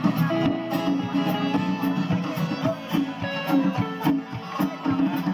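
Live bluegrass band playing an instrumental stretch of a country song, plucked strings and guitar over a steady beat.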